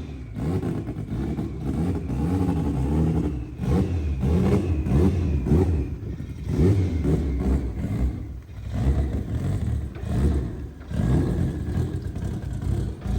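Turbocharged Honda B-series four-cylinder in an all-wheel-drive EK Civic revving and pulling under throttle. It drops off briefly every two to three seconds, as with lifts or gear changes.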